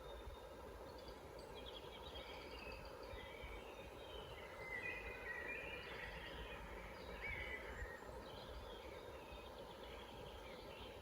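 Several forest songbirds chirping and singing in short overlapping phrases, busiest in the middle, over a steady low background rumble.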